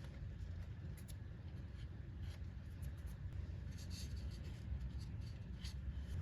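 Light scratching and rubbing strokes from cleaning rust and dust off the wheel hub's sensor mounting surface, irregular and uneven, over a steady low hum.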